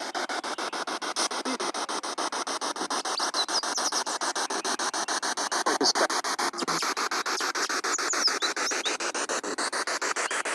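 Spirit box radio sweeping rapidly through stations: a continuous static hiss chopped into even bursts about ten times a second, with brief fragments of tone from passing broadcasts.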